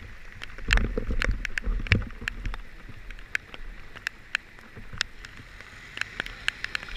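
Scattered raindrops ticking irregularly on a nearby hard surface over a faint steady hiss, with low rumbling through the first couple of seconds.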